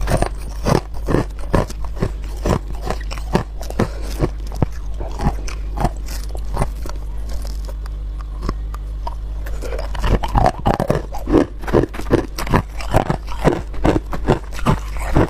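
Ice being bitten and chewed, a run of sharp crunches. They go sparser and fainter for a few seconds in the middle, then come thick and loud again near the end.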